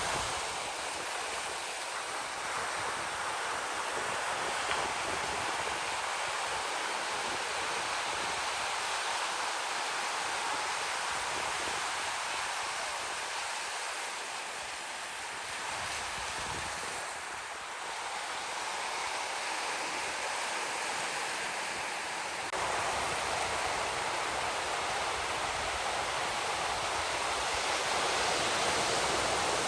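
Ocean surf washing onto a beach: a continuous rush of breaking waves that eases a little in the middle and steps up in level about two-thirds of the way through.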